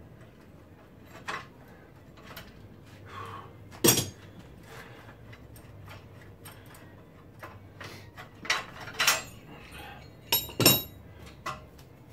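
Scattered metallic clinks and knocks of hand tools on steel car suspension parts, with sharper impacts about four seconds in and twice more in the second half.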